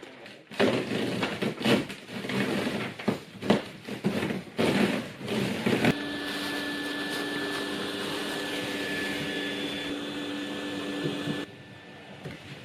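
Irregular scraping and knocking noises for about five seconds, then a small electric motor, likely a power tool, starts and runs steadily with a constant whine for about five seconds before cutting off abruptly near the end.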